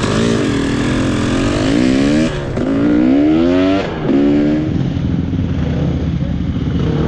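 Off-road trail motorcycle engine revving hard, its pitch rising and falling, with the throttle cut briefly twice, about two and four seconds in, before it settles to a steadier run. Another engine runs steadily underneath.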